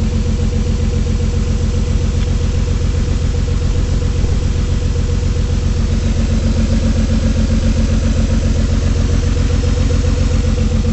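2003 Ford Escape engine idling with a steady, even pulse, shaking from a constant misfire caused by a bad ignition coil.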